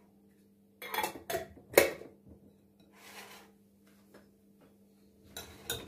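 Dishes and cutlery clattering: a quick run of sharp clinks and knocks about a second in, the loudest just before two seconds, a softer scrape around three seconds, and more clinks near the end, over a steady low hum.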